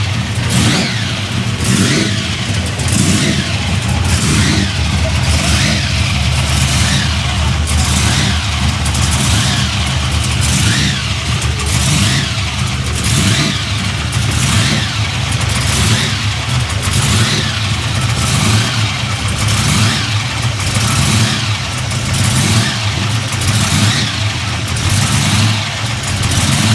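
1955 Chevy pro street car's 383 cubic-inch, alcohol-fuelled V8 running loud, its sound rising and falling in a steady rhythm about one and a half times a second.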